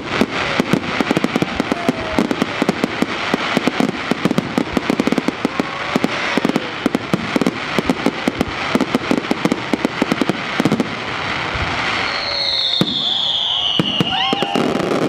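Fireworks display: a dense run of rapid crackling bangs for most of the time. About twelve seconds in, a loud whistle slowly falls in pitch for a couple of seconds as the cracking thins.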